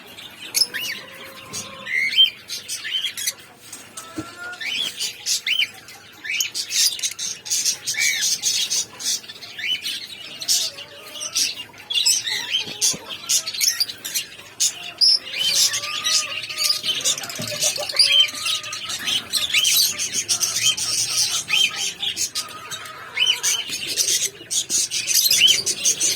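Small pet parrots (lovebirds and budgies) chirping and chattering together: a dense, continuous run of short high chirps and squawks with no pause.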